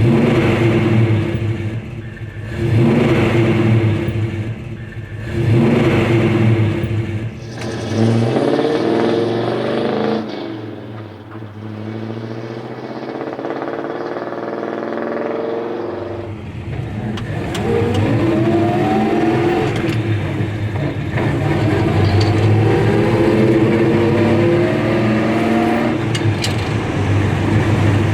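A V8 in a 1963–66 Chevrolet C10/GMC 1000 pickup, running through a Flowmaster American Thunder stainless exhaust with Super 44 mufflers. It is revved sharply three times, then settles lower. After that the truck accelerates through the gears, the pitch climbing and dropping back at each shift.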